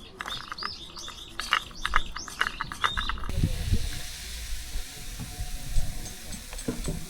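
A quick run of sharp clicks and short high chirps, then about three seconds in an abrupt change to a steady hiss with low thumps.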